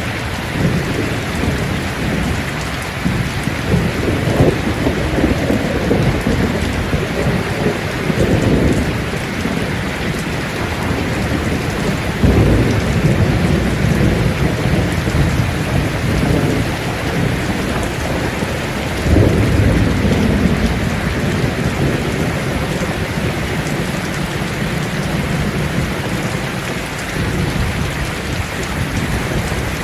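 Steady heavy rain falling on leaves, with low rumbles of thunder swelling several times, strongest about 12 and 19 seconds in.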